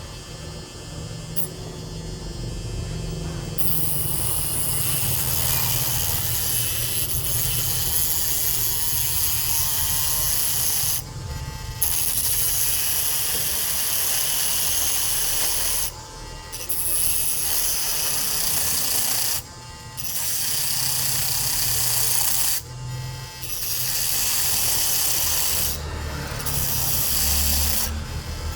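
Abrasive scraping or grinding against a hard surface in long passes of several seconds, with short breaks between them. It is quieter for the first few seconds.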